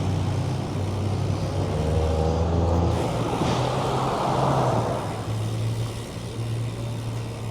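Road traffic: a motor vehicle's engine humming close by, with a vehicle passing that swells and fades about four to five seconds in.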